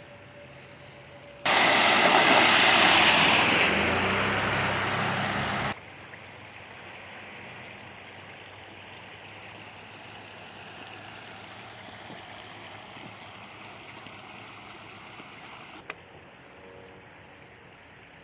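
A loud rushing noise for about four seconds that cuts in and out abruptly, followed by a steady, fainter rush like flowing water, with one sharp click near the end.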